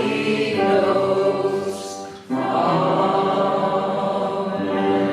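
Church congregation or choir singing a hymn together, on long held notes. The phrase breaks off a little over two seconds in and the singing comes straight back, then trails off near the end.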